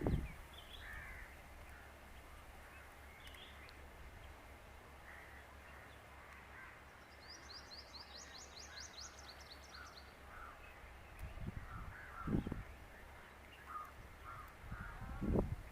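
Birds calling: scattered short calls, with a rapid high trill of quick repeated notes from another bird for about three seconds in the middle. There are two low thumps near the end.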